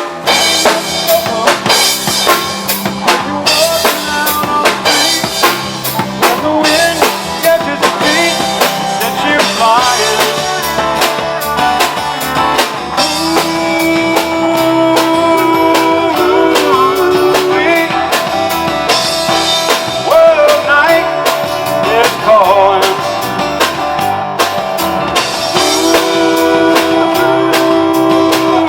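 Live rock band playing a song: a drum kit keeping a steady beat under electric guitar and bass, with lead lines that bend in pitch.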